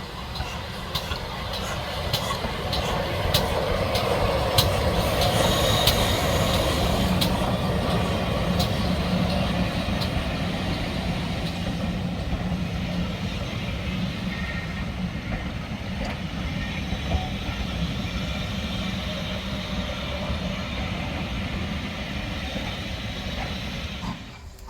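Steam-hauled train passing close by: a steady rumble of locomotive and coaches that builds over the first few seconds, with sharp clicks of wheels over rail joints in the first half.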